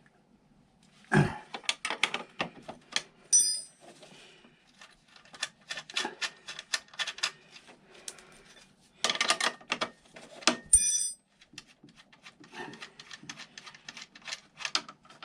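Hand tools working on nuts and bolts under a scooter: irregular metallic clicks, scrapes and knocks, with a heavier thump about a second in and two short ringing metal clinks.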